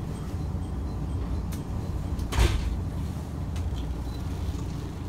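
Steady low rumble of a diesel train heard from inside its passenger car, with one sharp knock about halfway through.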